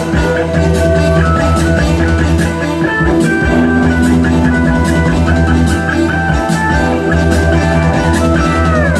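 Rock music with a guitar-led melody over a steady low bass and a drum kit keeping a regular beat. Near the end the melody slides down in pitch.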